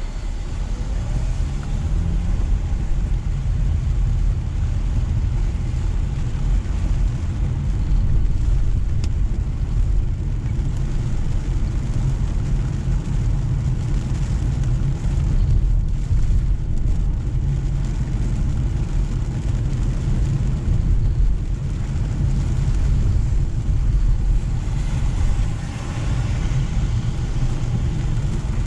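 Car driving through steady rain on a wet road: a steady low rumble of road and engine noise with tyre and rain hiss over it, heard from inside the car. The engine's pitch rises briefly about a second in.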